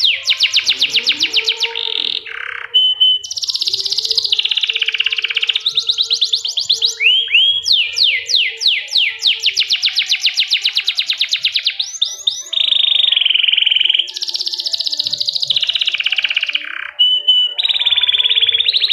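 Domestic canary singing a continuous song: fast trills of rapidly repeated high notes and swept notes, broken by a few short steady whistles, one phrase running straight into the next.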